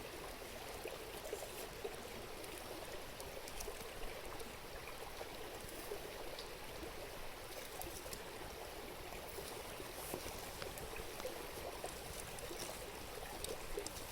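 River water babbling steadily, with faint scattered crackles from a campfire.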